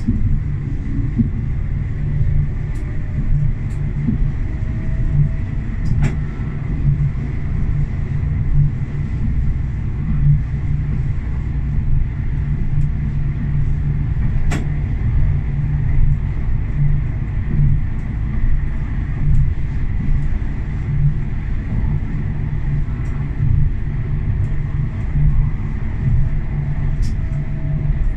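Tram running along its line, heard from the driver's cab: a steady low rumble with a faint whine that slowly rises in pitch, and two sharp clicks several seconds apart.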